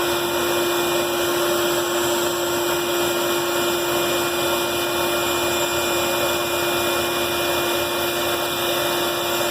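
Band saw running steadily, its motor and blade giving a constant hum with an even whirring noise over it.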